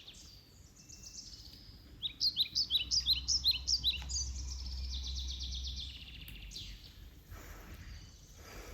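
Songbirds singing in quick runs of short descending chirps, loudest a couple of seconds in and thinning out after, over a faint low rumble.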